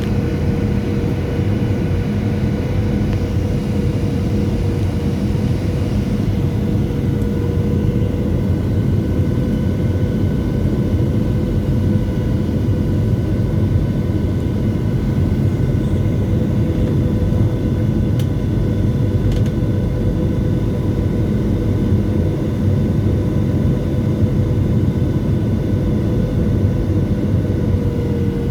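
Boeing 737-700 cabin noise: the CFM56 engines' steady fan whine over a constant airframe rumble.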